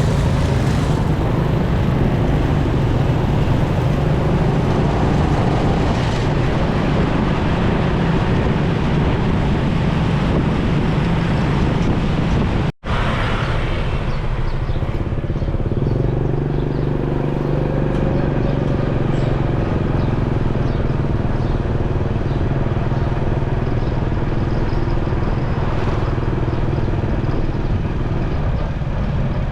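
Motorcycle on the move in road traffic: a steady heavy rush of wind over the microphone with the engine running underneath. The sound drops out for an instant about thirteen seconds in, then carries on the same.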